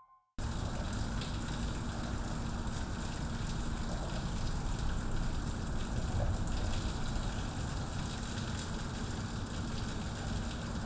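Steady rushing water noise, starting abruptly just after a cut, with a faint steady low hum underneath.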